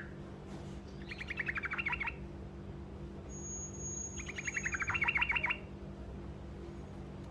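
Trucukan (yellow-vented bulbul) singing its short rolling song: two quick trilled phrases of rapidly repeated notes, the second longer and louder, about a second and a half apart.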